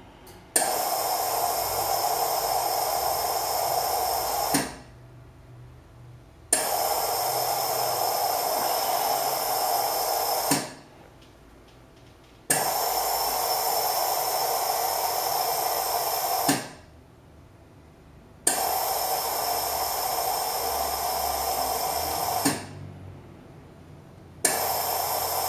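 Carimali Gusto automatic coffee machine rinsing its milk foaming device with fresh water during its clean cycle. The rinse flow hisses in bursts of about four seconds, each starting with a click, with pauses of about two seconds between them: five bursts in all.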